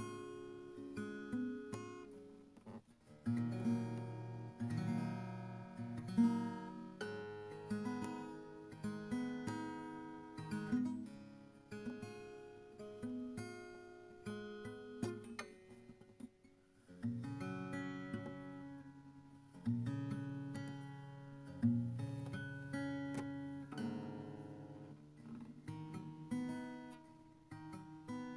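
Background music played on acoustic guitar: plucked and strummed chords in a steady rhythm.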